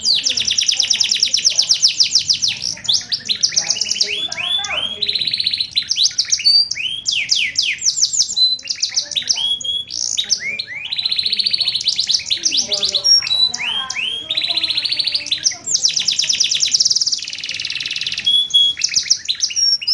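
Domestic canary singing a long, continuous song of fast trills of rapidly repeated notes and sharp downward-sweeping whistles, with only brief pauses between phrases. The song is filled with phrases learned from the sanger bird.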